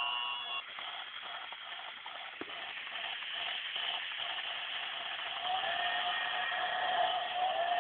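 Toy Christmas train running with its steam sound effect: a steady hiss with faint rapid chuffing. From about five and a half seconds in, a wavering whistle-like tone joins it.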